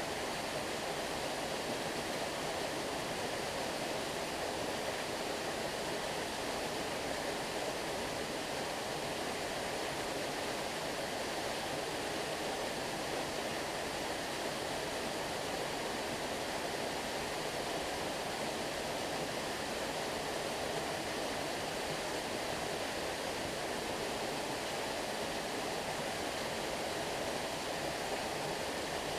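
Flowing water rushing steadily, an even, unbroken wash with no distinct splashes.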